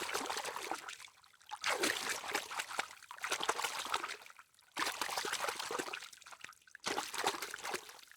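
Water trickling and splashing, in several stretches of a second or more broken by short gaps.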